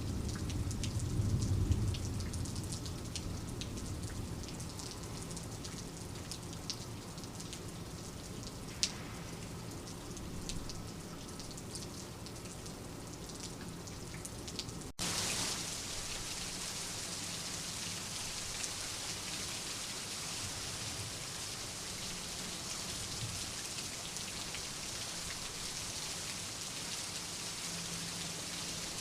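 Steady rain falling outside a window, with a low rumble of thunder dying away in the first couple of seconds and individual drops ticking sharply. About halfway through the sound cuts abruptly to a denser, even hiss of heavier rain.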